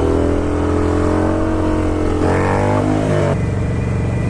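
Motorcycles under way: a steady low engine rumble mixed with wind, joined by a second, higher engine note. The higher note holds for about two seconds, then falls in pitch as that bike slows, and stops a little after three seconds in.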